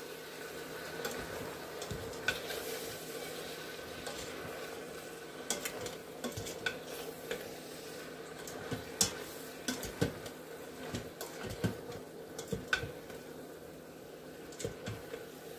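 Spoon stirring food in the Instant Pot's inner pot over a steady low sizzle, with scattered scrapes and taps of the utensil against the pot.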